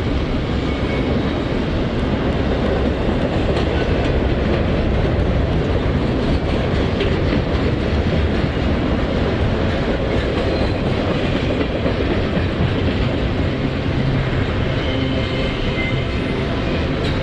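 Freight cars of a CSX intermodal train rolling past, a steady heavy rumble with wheel clatter on the rail joints. A faint wheel squeal comes in near the end.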